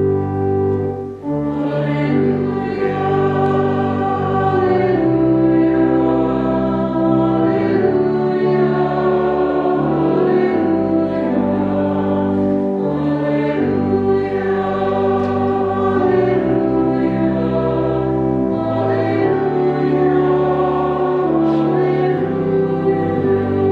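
Choir singing a hymn over organ accompaniment, in held chords that change every second or two.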